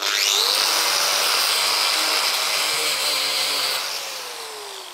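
A small handheld power tool with a metal-cutting blade, cutting an old plastic waste pipe, spins up quickly to a high whine. It runs steadily for about four seconds, then winds down with a falling pitch.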